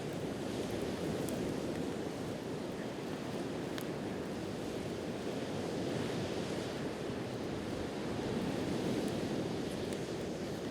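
Sea waves washing on the shore in a steady, gently swelling rush, with a few faint pops from a campfire.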